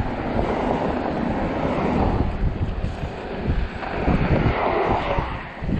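Wind rushing over the microphone with a low, steady rumble from a fat-tire electric bike riding over snowy, slushy pavement, surging and easing a few times.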